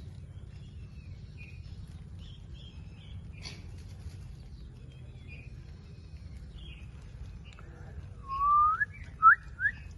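Faint, scattered chirps of a ringneck parrot, then near the end a loud whistle rising in pitch, followed quickly by two short rising whistles.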